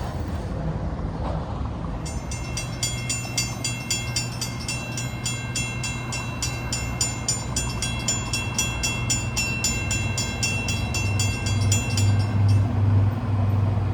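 Railroad grade-crossing bell ringing in rapid, even strikes, several a second, starting about two seconds in and stopping near the end. Under it the low rumble of the approaching diesel locomotive grows louder and pulses near the end.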